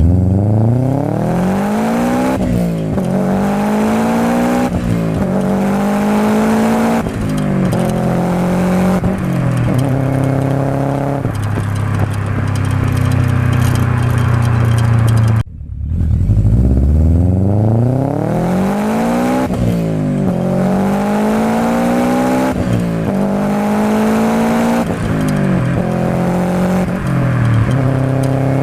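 Subaru Impreza WRX STi's turbocharged flat-four engine and exhaust under hard acceleration, the engine note rising through the gears and dropping at each upshift. Two such runs, each with about four upshifts; the first settles into a steady note before an abrupt cut, and the second run starts.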